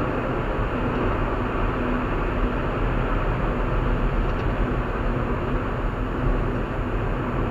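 Steady road and engine noise of a car driving at highway speed, with a strong low rumble.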